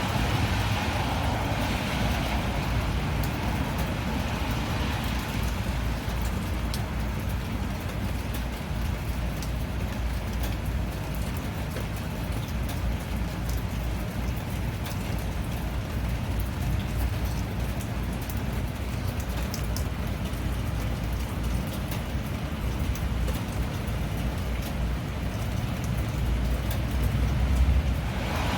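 Steady rain falling, under a constant low rumble, with a swell of hiss near the start and again near the end.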